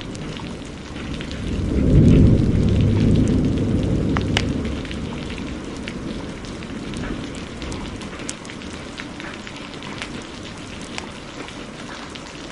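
A roll of thunder swells about two seconds in and dies away over the next few seconds, over steady heavy rain and the scattered pops of a crackling wood fire.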